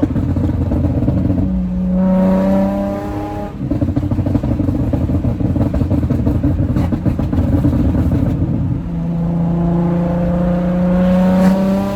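Nissan 350Z's 3.5-litre V6 through a straight-through titanium Agency Power exhaust, revved and held twice, briefly the first time and longer the second. Between the revs it drops back to a rough idle with sharp popping on the overrun.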